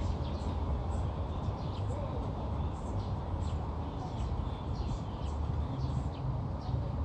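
Small birds chirping outdoors, with many short high calls scattered throughout, over a steady low rumble.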